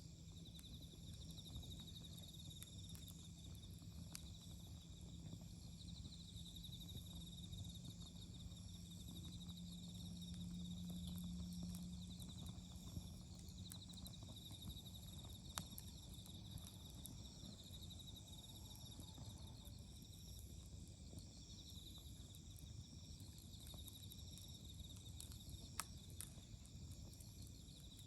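Faint autumn insect chorus: repeated high, pulsing trills over and over, with scattered sharp clicks or crackles. A low steady hum swells in the middle and fades out a few seconds later.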